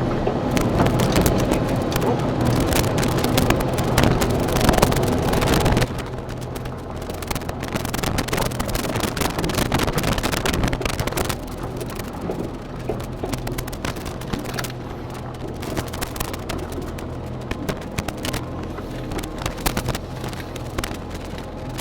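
Excavator diesel engine running under load, with many cracks, snaps and scrapes as the bucket rakes through brush and rotten wood. The engine drops in level about six seconds in and again about halfway through.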